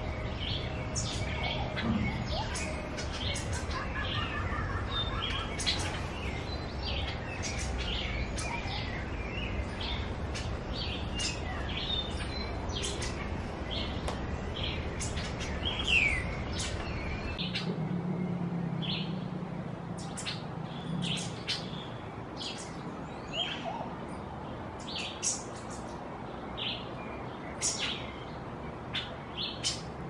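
Wild birds chirping and calling, many short high notes several a second, with one louder falling call about sixteen seconds in. A low background rumble underneath ends a little after that.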